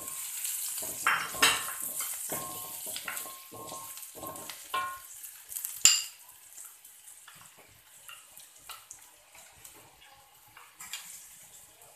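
Sliced shallots and dried anchovies sizzling in hot oil in a metal wok, stirred with a wooden spatula that scrapes and knocks against the pan. A sharp ringing knock comes about six seconds in, after which the sizzle dies down to scattered scrapes.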